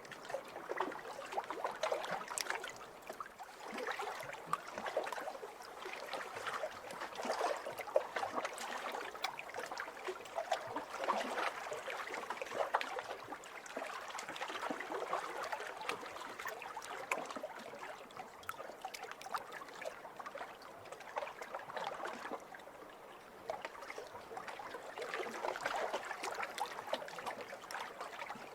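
Small waves lapping over a pebble beach: water washing in and draining back through the stones with a fine crackle of tumbling pebbles, swelling and easing every few seconds.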